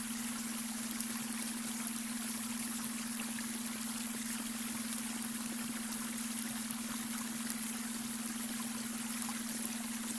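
Babbling brook: water running and trickling over stones in an even, steady rush. Beneath it runs a steady low hum, the beta-wave brainwave tone mixed into the soundscape.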